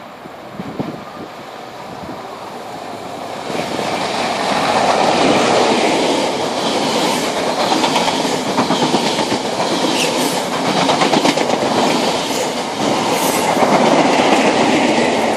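High Speed Train (InterCity 125) passing at speed: the noise builds from about three seconds in as it nears, then a steady loud rush with wheels clattering over the track as the coaches go by, the rear diesel power car passing near the end.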